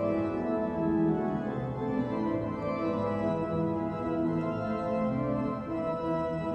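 Large pipe organ, the Casavant Opus 700, playing full sustained chords that change every second or so.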